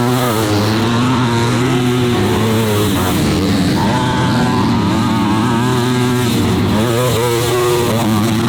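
250cc four-stroke motocross bikes racing, their engines revving up and down as the riders work the throttle through the track.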